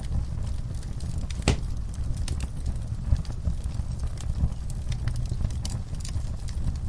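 Log fire crackling with irregular sharp pops from the burning wood, one louder pop about a second and a half in, over a steady low rumble.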